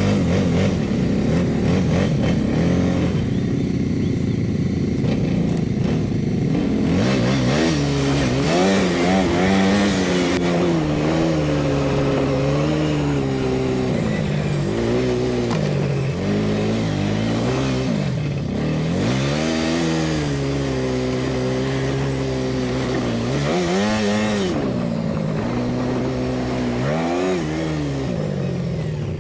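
ATV engine running under way, fairly steady for the first several seconds, then its pitch rising and falling again and again as the throttle is opened and eased off.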